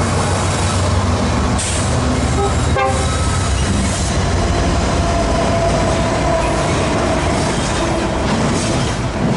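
Freight train rolling past close by: a loud, steady rumble and clatter of wheels on rail, with a faint thin squealing tone through the middle.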